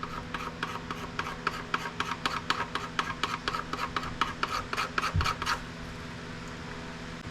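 Rapid, evenly repeated rasping strokes of a hand tool working at a piece of scrap IT equipment, about four a second, stopping about five and a half seconds in.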